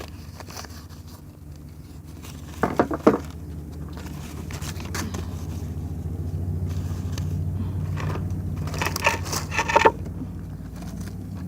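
Two short bursts of crackling and scraping, about three seconds in and again near the end, as things are thrown onto a small wood campfire, over a steady low hum that swells in the middle.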